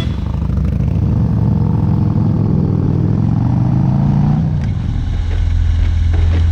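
V-twin motorcycle engine pulling under throttle, its pitch rising steadily for about four seconds. It then drops back at about four and a half seconds and settles into a steady low drone at cruising speed.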